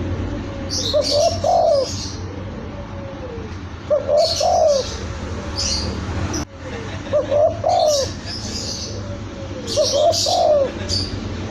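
Spotted dove cooing its short phrase, a faint lead-in note then two strong coos, repeated about every three seconds, with high chirps of small birds in between.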